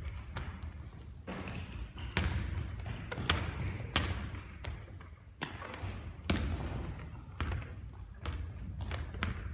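A basketball bouncing on a court during three-point shooting practice, a thud roughly every second.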